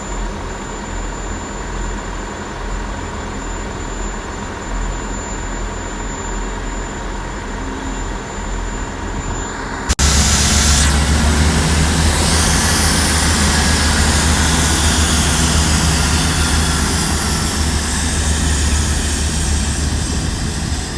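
Diesel multiple unit trains' underfloor diesel engines running in the station: a steady low engine hum, then about halfway an abrupt jump to a much louder, deeper engine noise with a high whine, as a unit works under power.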